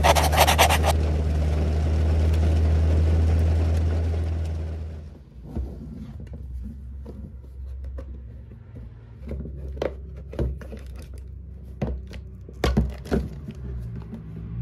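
Rain falling with a deep steady rumble, fading out about five seconds in. Then a plastic storage box is handled and its hinged lid opened, with scattered sharp clicks and knocks of plastic.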